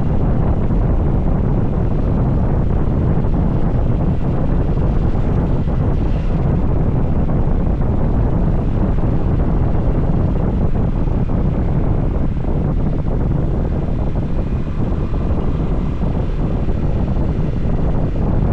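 Steady low rumble of wind buffeting the microphone on a moving motorcycle, mixed with the motorcycle's running and road noise.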